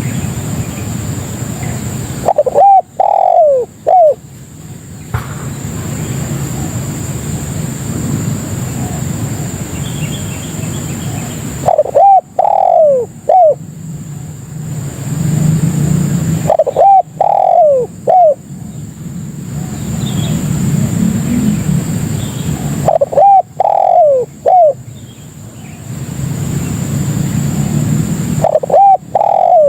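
Spotted dove cooing, giving its short phrase of about three arching notes five times, roughly every five to six seconds. A steady low rumble and a faint high whine run underneath.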